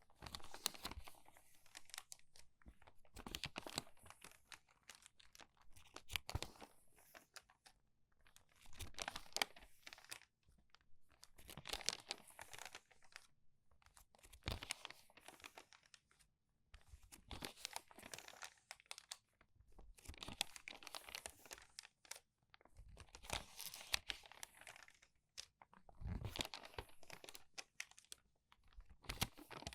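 Crumpled paper pages being turned quickly, one after another: about ten crinkly rustles, each a second or so long, every two to three seconds.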